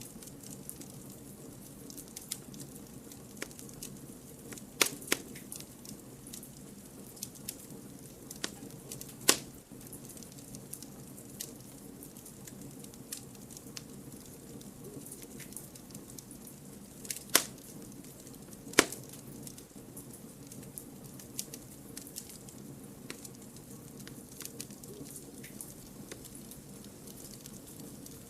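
Firewood burning in a campfire: a steady low hiss with scattered crackles and a few louder sharp pops.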